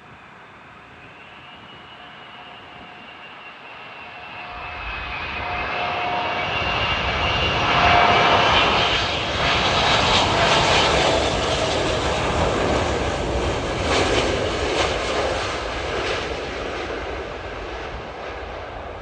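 Airbus A380-861's four Engine Alliance GP7200 turbofans on landing approach, passing close overhead. The jet noise builds to a loud peak about eight seconds in, holds, then slowly fades. A thin engine whine glides downward in pitch as the aircraft passes.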